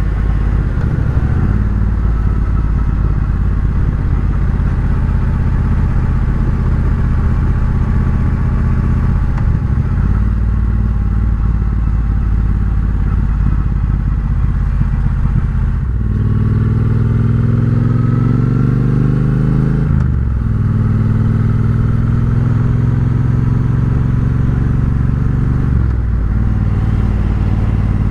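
Triumph Bobber's 1200 cc parallel-twin engine through a Vance & Hines exhaust, heard while riding. The engine note runs steadily with brief dips at several gear changes. Around the middle the pitch climbs for a few seconds under acceleration before the next shift.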